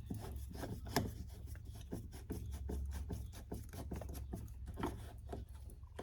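Hand work on a car's interior door panel parts: steady scraping and rubbing with many small irregular clicks, and a sharper click about a second in.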